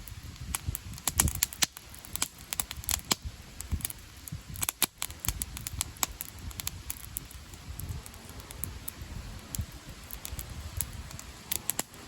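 Wood campfire crackling, with irregular sharp pops and snaps, several clustered in the first few seconds, over a fluctuating low rumble.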